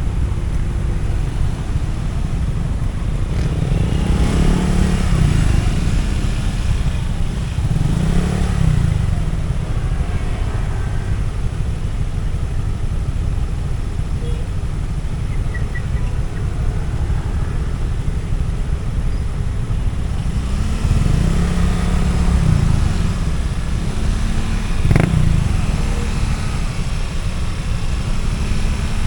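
Motorcycle riding on a road: steady road and wind rumble, with engine pitch rising and falling several times, most of all in the last third. There is one sharp click near the end.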